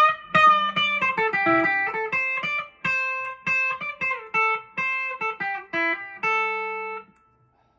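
PRS SE McCarty 594 electric guitar played clean through a VOX AC10 amp: a melodic line of picked single notes, ending on a held note that stops about seven seconds in.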